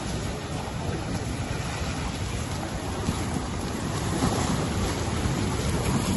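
Storm noise: a steady, loud rushing with heavy low buffeting and no distinct events.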